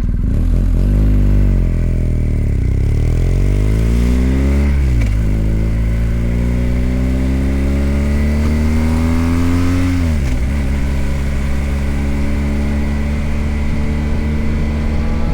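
BMW R1250GS Adventure's boxer-twin engine accelerating through the gears. Its pitch rises, drops at an upshift about five seconds in, rises again, drops at another upshift about ten seconds in, then holds steady.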